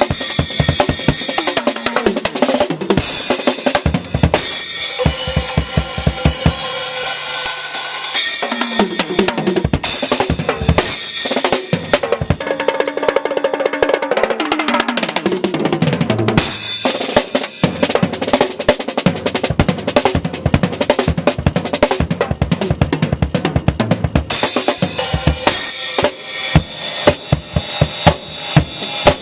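Acoustic drum kit played hard in a fast solo: bass drum, snare and rimshots under a constant cymbal wash, with tom fills running down in pitch about halfway through and sharp accented hits near the end.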